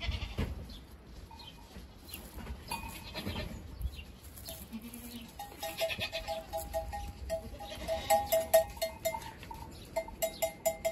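Goats and young kids bleating, with a run of short, quickly repeated high calls in the second half and scattered clicks and knocks.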